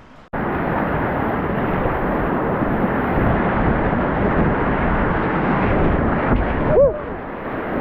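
Steady loud rush of whitewater rapids, cutting in suddenly just after the start.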